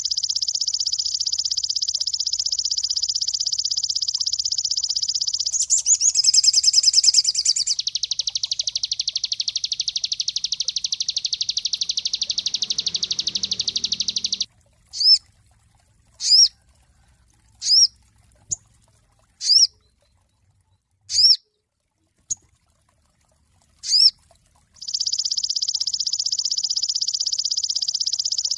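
Sogon songbird singing: long, very rapid, high-pitched trills that swell louder briefly, stop about halfway through, then give way to a string of single sharp whistled notes about a second and a half apart before the rapid trill starts again near the end.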